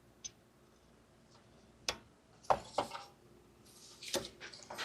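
A few light plastic clicks and knocks as a wiring-harness electrical connector is handled and pushed onto the turbo wastegate's plug, which does not latch with a click.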